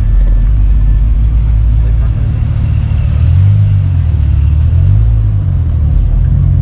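A car engine running with a deep, low rumble, its pitch rising and dipping a few seconds in as the revs change.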